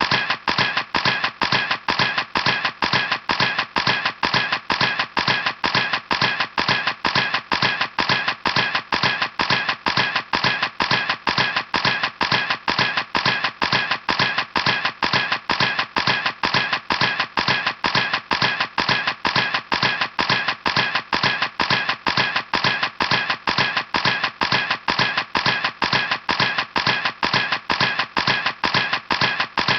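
Camera shutter clicking over and over in an even rhythm, about three clicks a second.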